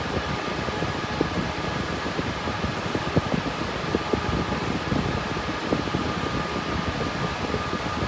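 Cooling fans of an RTX 3060 Ti GPU mining rig running while it mines: a steady rushing hiss with a faint, steady high whine over an uneven low rumble.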